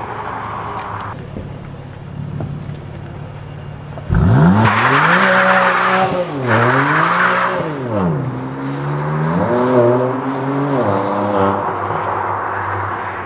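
Sports car engine idling, then suddenly revved hard about four seconds in as the car accelerates away. The engine note climbs and drops twice through quick gear changes, rises once more, then fades as the car leaves.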